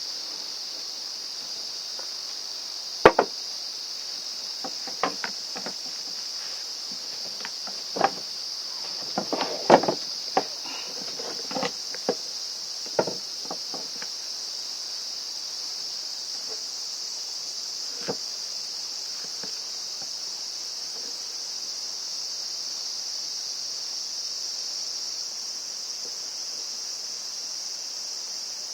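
Steady high-pitched insect chorus, with scattered sharp clicks and knocks of parts being handled during reassembly, bunched in the first half.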